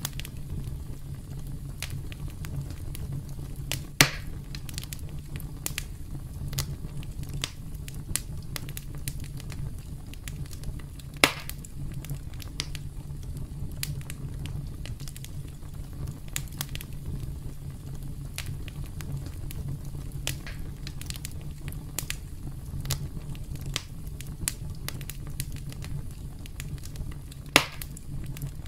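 Campfire burning: a steady low rumble of flames with frequent small crackles of burning wood and three loud sharp pops, at about 4, 11 and 27.5 seconds in.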